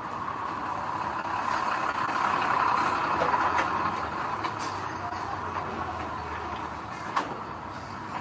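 Heavy construction machinery engine running steadily, louder for a second or two about two seconds in, with a few sharp metallic knocks.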